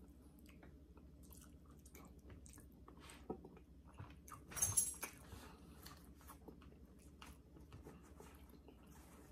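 Faint chewing and small mouth clicks of a man eating pulled pork roast, over a low steady hum, with one brief louder noisy sound about halfway through.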